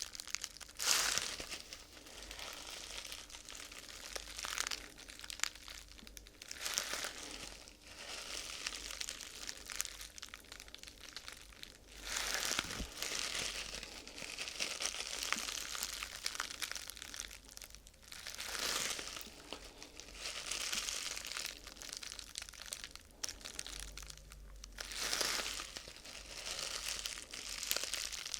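Thin crinkly sheet material being crumpled and handled close to the microphone, in uneven waves of crinkling that swell and fade every few seconds.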